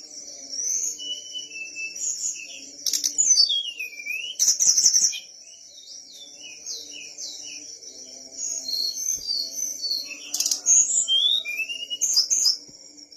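A sulingan gunung songbird singing in full voice: rapid runs of clear whistled notes that slide up and down, in loud bursts about three, five and ten to twelve seconds in. A steady high whine runs underneath the song.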